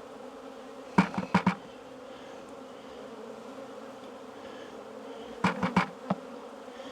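A mass of honey bees buzzing steadily around an opened hive. Two quick clusters of sharp knocks cut through it, about a second in and again near the end.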